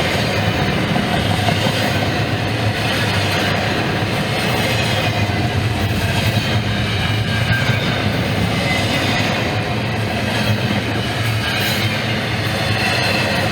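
Norfolk Southern freight train rolling past, a steady loud rumble of wheels on rail.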